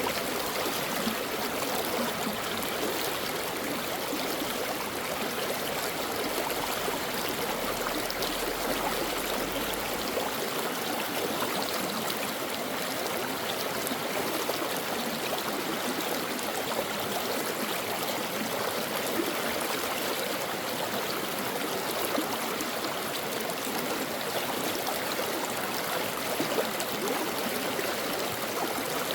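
A shallow brook flowing steadily over rocks, a continuous rush of water with fine babbling and trickling.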